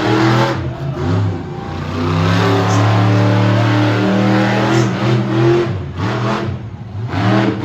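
Monster truck engine revving hard: its pitch climbs about two seconds in and holds high for a few seconds, then falls away and climbs again near the end.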